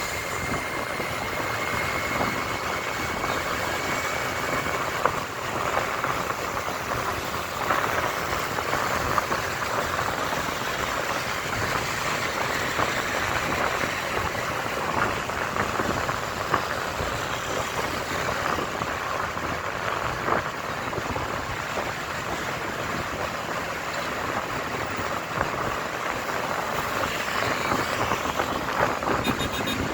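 Motorcycle on the move: a steady rush of road and wind noise with the engine running underneath.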